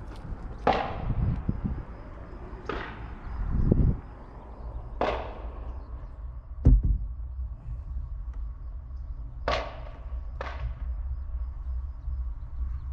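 Brooding barn owl hen hissing at the intrusion into her nest box: five separate breathy hisses, each under a second, with a couple of low bumps and a low rumble of handling in between.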